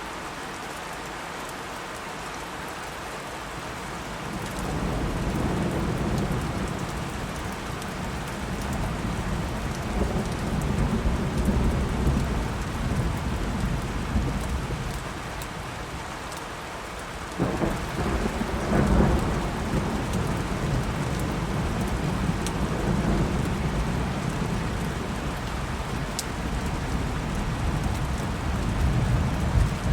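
Steady rain falling through a thunderstorm, with thunder rumbling in low about four seconds in and rolling on. Just past halfway a sudden sharp crack of thunder breaks in, followed by a louder rumble.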